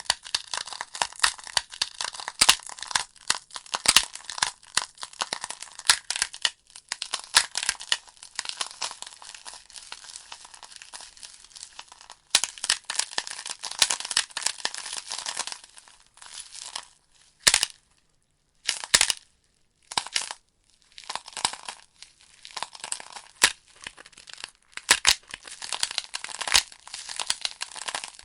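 Wood fire burning in a fireplace: a dense, irregular crackling with sharp pops over a soft hiss. About two-thirds of the way through it breaks into a few brief near-silent gaps, then the crackling carries on.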